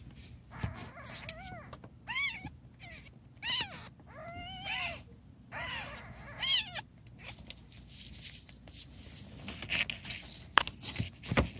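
Newborn kittens mewing: a run of about five thin, high cries that rise and fall in pitch, followed near the end by scattered clicks and rustling.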